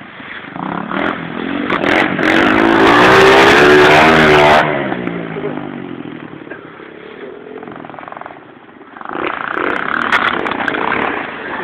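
Pit bike engine revving as the bike rides up and passes close, loudest a few seconds in, then fading away. The engine comes up again near the end.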